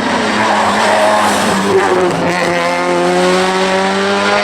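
Race car's engine at full throttle, its note climbing steadily through the second half as it accelerates hard through a gear.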